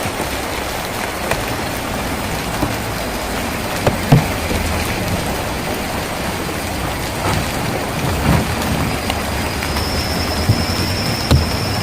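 Steady rain on a tin roof, an even patter with a few heavier drops landing as dull thuds. A faint thin high tone comes in near the end.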